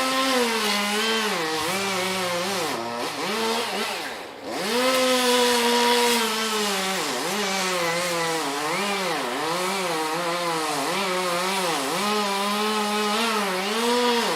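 Chainsaw engine running at high revs while cutting, its pitch repeatedly sagging under load and recovering. It falls off briefly about four seconds in, then revs back up and keeps cutting.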